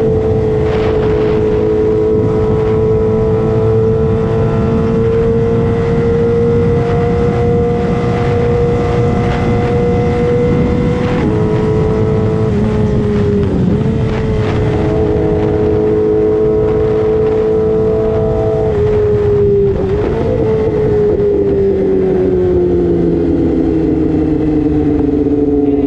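Yamaha R6 sportbike's inline-four engine held at high revs under way, one high, steady note with wind rush. It dips briefly a few times and then falls slowly in pitch over the last several seconds as the bike slows.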